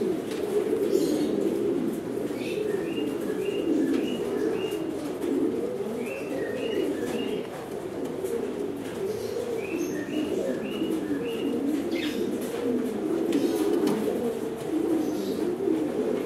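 Many domestic pigeons cooing together in a loft, a dense, continuous warbling murmur. Over it, short runs of four or five high chirping notes repeat several times.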